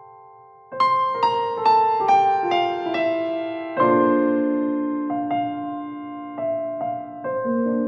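Background piano music: after a fading chord, a descending run of single notes about two a second, then a fuller chord and a few more gentle notes.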